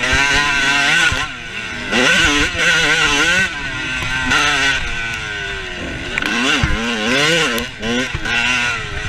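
Motorcycle engines revving, their pitch climbing and dropping again and again.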